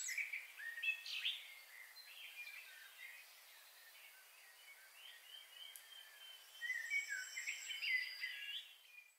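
Birdsong: several birds chirping and whistling short phrases over a faint hiss, busiest at the start and again near the end, then stopping abruptly.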